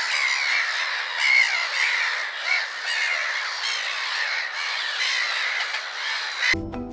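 A flock of many birds calling at once in a dense, overlapping chorus, cutting off suddenly near the end.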